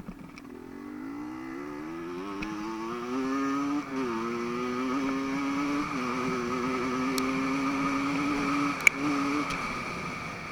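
Dirt bike engine growing louder with its pitch climbing, then running steadily at high revs with two brief drops in pitch, and fading away near the end. A sharp click sounds just before it fades.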